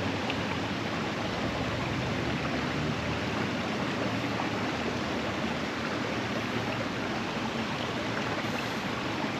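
Creek water running steadily, an even rush with no distinct events.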